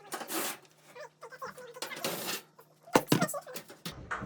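Disassembly of a dryer cabinet by hand: two short rasping scrapes, then two sharp metal clicks about three seconds in and a few lighter ticks, as the back panel's screws and sheet-metal parts are worked loose.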